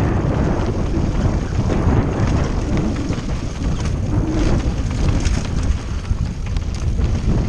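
Wind buffeting the microphone of a mountain bike rider's camera at speed, a steady low rumble, with scattered rattles and knocks from the bike riding over rough ground.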